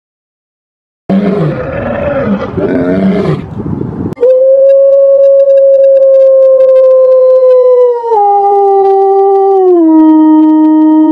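A harsh, rough animal call lasting about three seconds, then a gray wolf howling: one long, clear howl that starts about four seconds in, holds its pitch, then drops lower in two steps.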